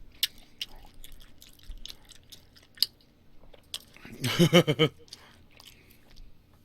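Close-miked wet chewing of a mouthful of barbecued meat: irregular smacks and clicks of lips and tongue. About four seconds in, a short voiced murmur of a few quick pulses from the eater, louder than the chewing.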